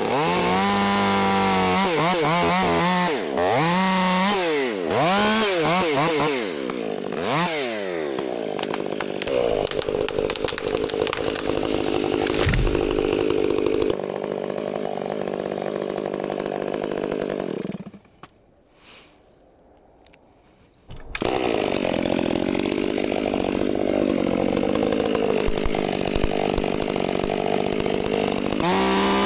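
Chainsaw engine revving up and down over and over for the first several seconds, then running steadily as it cuts. It goes quiet for about three seconds just past halfway, then runs steadily again.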